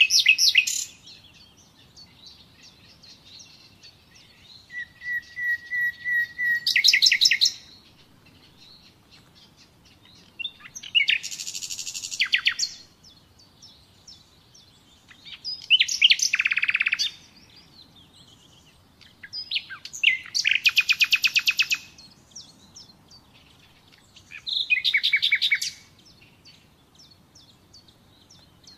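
Nightingale singing in separate phrases of one to three seconds, with short pauses between them. One phrase opens with a run of repeated piping notes that grow louder; others are fast, rattling trills.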